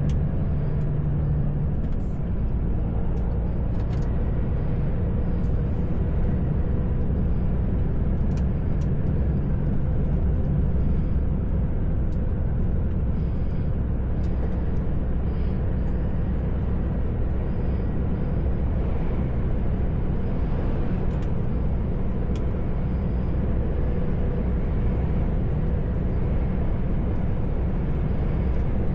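Heavy truck's diesel engine running steadily under way, with road noise, heard from inside the cab; a few faint clicks over it.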